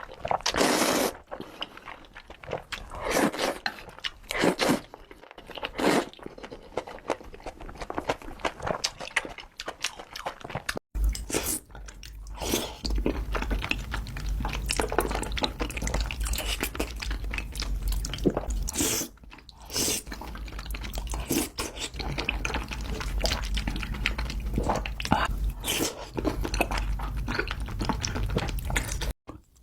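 Close-miked eating sounds: a person chewing and biting mouthfuls of Buldak ramen noodles in quick irregular bites. The sound cuts abruptly about 11 seconds in, and from then on a low hum sits under the chewing.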